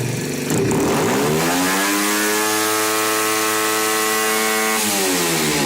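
88cc Chinese single-cylinder four-stroke engine revving up to wide open throttle about half a second in, holding a steady high pitch for about three seconds, then dropping back near the end; it has no rev limiter.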